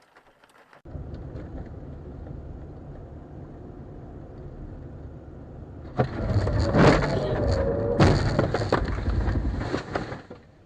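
Steady engine and road noise inside a moving car, then about six seconds in a sudden loud crash noise that lasts about four seconds, with a second sudden jump about two seconds after the first.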